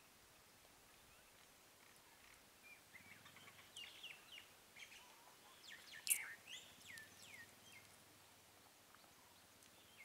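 Wild birds calling: a run of short, high-pitched, falling chirps in the middle, the sharpest and loudest about six seconds in, over a faint, near-silent outdoor background.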